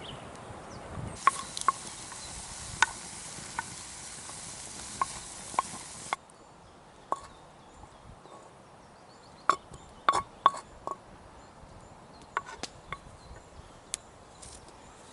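Scattered sharp clicks and knocks of cooking utensils and ingredients being handled over a steady hiss. The hiss stops abruptly about six seconds in, and the knocks go on more sparsely and more quietly, with a quick cluster about ten seconds in.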